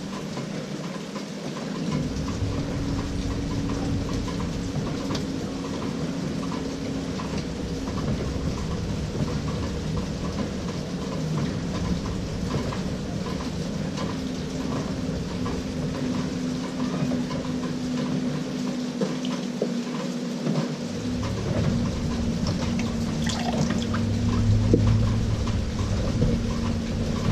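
LG 18 kg top-load washing machine agitating on its delicate cycle: the motor hums as the wash water sloshes. It pauses briefly about two-thirds of the way in, then starts again.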